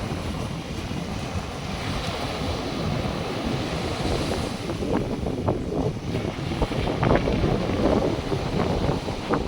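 North Sea surf washing onto the beach, a steady rush with a swell of hiss a few seconds in. Wind gusts buffet the microphone, with bumps and rumble in the second half.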